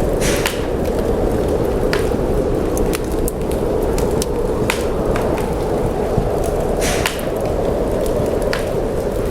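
Wood fire crackling in a fireplace, with scattered sharp pops, a couple of them louder, over a steady rushing roar of storm wind.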